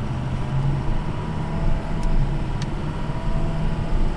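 Ford 6.0 Power Stroke turbo diesel V8 of a 2006 F350 pulling steadily under acceleration, its drone shifting in pitch as the automatic transmission goes through the gears. Two faint clicks come about two seconds in and half a second later.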